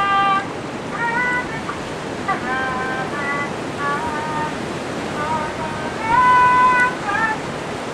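A string of short, high-pitched cries over a steady wash of water and wind noise; one cry about six seconds in is held longer and louder than the rest.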